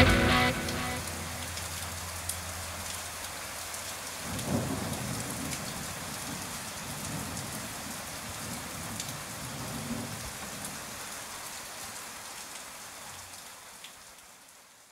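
Steady rain with low rumbles of thunder swelling about four and a half and ten seconds in, the whole slowly fading out near the end.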